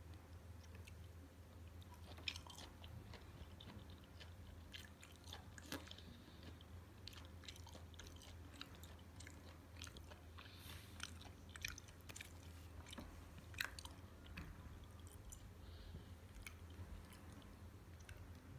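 Close-up chewing of raw fish sashimi, quiet wet smacks and many irregular small clicks, over a faint steady low hum.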